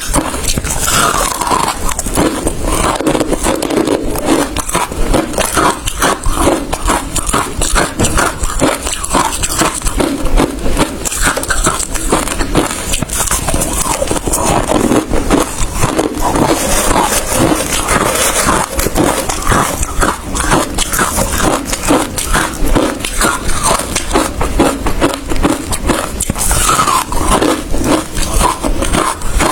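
Ice being bitten and chewed close to the microphone: a dense, continuous run of rapid crunches and cracks.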